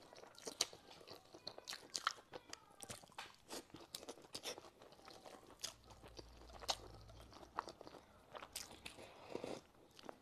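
Close-miked mouth sounds of a person chewing a mouthful of soft wheat noodles and egg: faint, irregular wet clicks and smacks.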